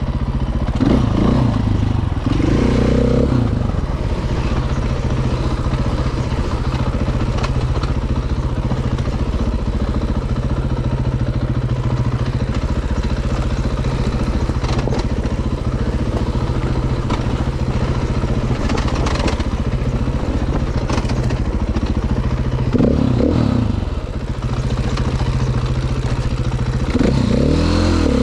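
Dirt bike engine running steadily, revving up and back down a few times near the start and again near the end.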